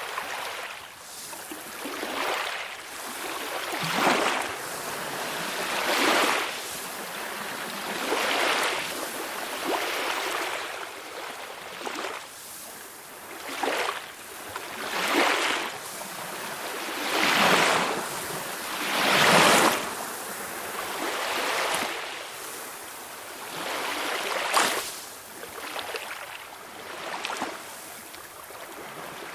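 Small sea waves washing ashore, one surge after another every couple of seconds, each a hiss that swells and falls away, with the largest about two-thirds of the way through.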